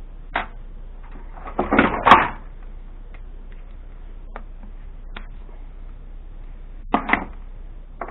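Knocks and clatter of a desktop computer case and tools being handled during dismantling: a single knock just after the start, a loud cluster of clunks about two seconds in, and a couple more knocks near the end.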